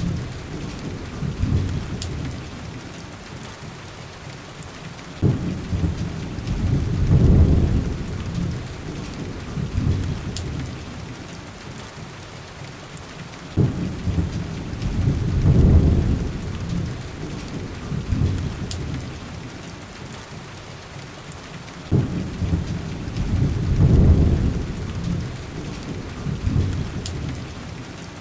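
Heavy rain hissing steadily on window glass, with low rumbles of thunder. Each rumble starts suddenly, swells for a couple of seconds and fades away, three times about eight seconds apart. A few faint sharp ticks sound now and then.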